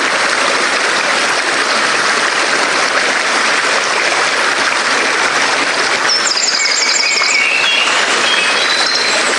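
Steady rushing noise, with birds singing on top from about six seconds in: a quick run of repeated high chirps, then a few short whistled notes.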